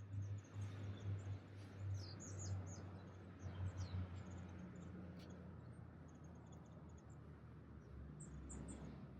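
Small birds chirping, many short high calls, some falling in pitch, over a steady low hum.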